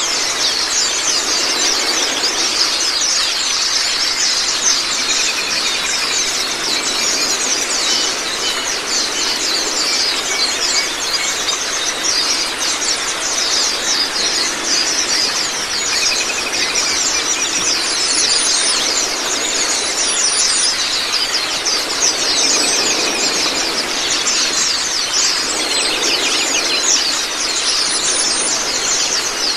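A group of white-eyes (Zosterops) chattering and singing nonstop in fast, high-pitched chirps over a steady rush of running water.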